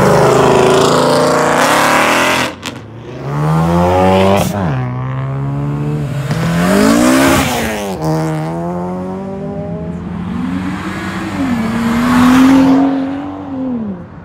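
A car engine with a loud exhaust revving hard, its pitch climbing and dropping about four times. The last pull holds high for a couple of seconds before falling away near the end.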